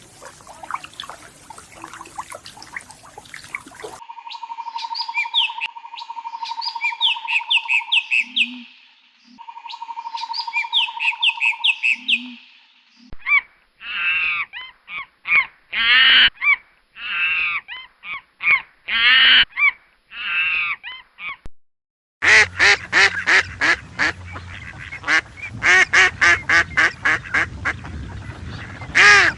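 Ducks quacking: loose runs of harsh calls, then a fast, loud string of repeated quacks in the last third. Before them, in the first half, there is a stretch of noise and then shorter chirping bird calls.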